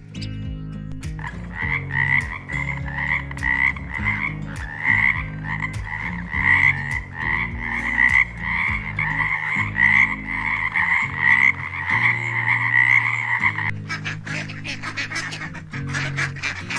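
A tree frog calling: a regular run of croaks, two or three a second, each with a doubled pitch. Background music plays underneath. Near the end the croaking stops and a harsher, noisier animal call takes over.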